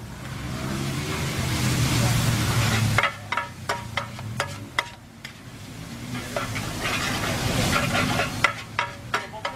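Pad thai noodles sizzling on a large flat round metal pan as two metal spatulas toss them. The sizzle swells twice, and sharp clanks of the spatulas striking the pan come in quick runs between the swells and near the end.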